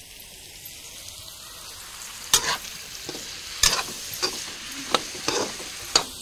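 Cauliflower florets sizzling as they shallow-fry in a kadai, with a spoon stirring them and clacking against the pan several times from about two seconds in.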